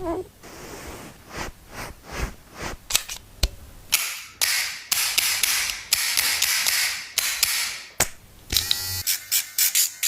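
Dog grooming sounds: scattered sharp clicks, then several hissing bursts about a second long each, and a short electric buzz near the end that runs into quick, even pulses.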